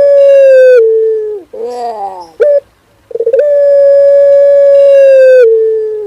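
Male puter pelung dove cooing its long song: a held note stepping down to a lower one, then a run of falling notes and a short final note about two and a half seconds in. The song starts again just after three seconds in, its long note held until near the end, then steps down again.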